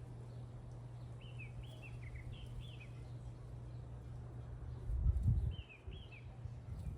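A small bird giving runs of short, downward-sliding chirps, one run early and a shorter one near the end, over a steady low hum. A brief low rumble comes about five seconds in.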